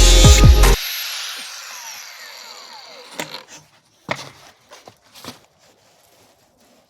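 A handheld power tool cutting the metal sandwich chimney pipe is switched off under a second in, and its motor whine falls steadily as it spins down. A few sharp knocks follow as the cut pipe is handled.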